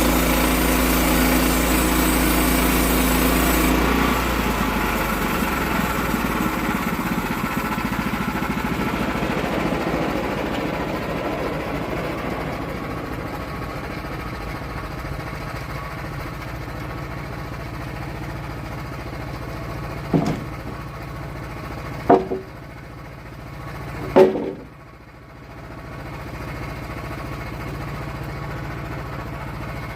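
Sawmill engine running steadily, then dropping in level and pitch about four seconds in and slowly getting quieter. Late on come three sharp knocks about two seconds apart, followed by a lower steady running sound.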